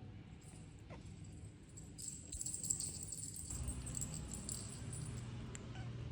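Small metallic jingling and rattling, starting about two seconds in, with a quick run of tiny clicks.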